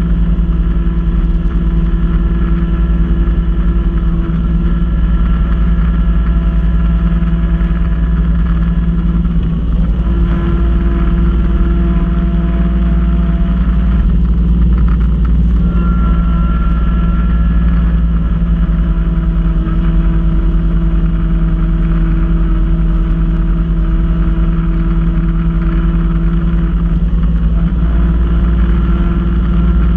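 Kubota B2650 compact tractor's three-cylinder diesel running steadily at working speed with its front-mounted snow blower. A higher whine over the engine note shifts in pitch several times, around ten, fifteen, twenty and twenty-seven seconds in.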